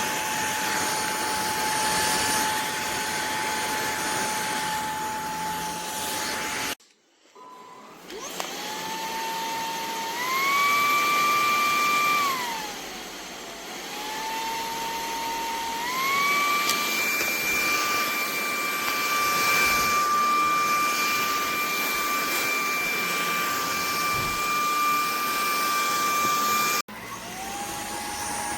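Eureka cordless vacuum cleaner running with a steady high motor whine. It cuts out briefly, starts again with a rising whine, then twice steps up to a higher pitch and falls back between. Near the end it cuts off abruptly and resumes at the lower pitch.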